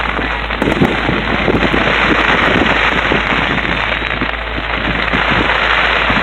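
Fireworks display: a loud, dense, continuous crackle of many small rapid bursts.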